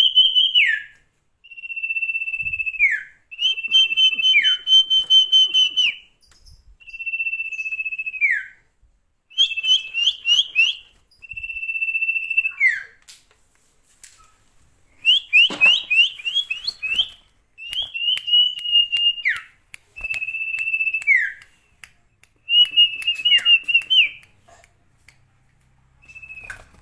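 A songbird (the Indonesian 'sirtu') in full song: a string of clear, loud whistled phrases, each a held high note that slides down at the end, some broken into quick chirping trills, with short pauses between phrases.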